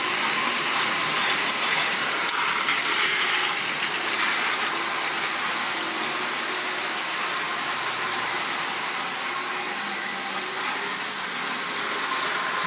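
Model railway train running along the track: a steady whirring, hissing running noise of the locomotive's motor and the rolling stock's wheels, with a single small click about two seconds in.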